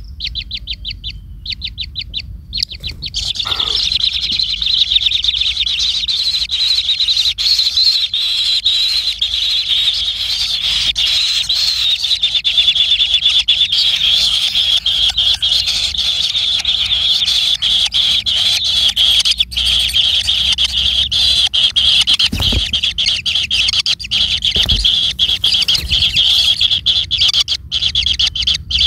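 A bird calling with a fast, high-pitched chattering trill. For the first few seconds it gives separate rapid notes, then it runs them together into an almost unbroken trill.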